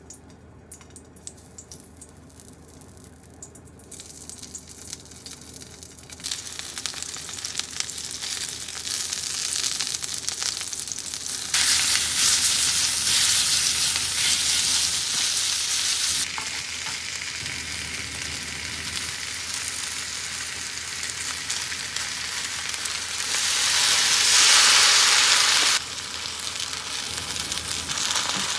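Eggplant, pork slices and broccoli sizzling in oil in a frying pan, stirred with chopsticks. The sizzle starts faint and builds, jumps louder about a third of the way in as the pork slices go in, and rises sharply again near the end as a splash of mirin hits the hot pan, then drops back suddenly.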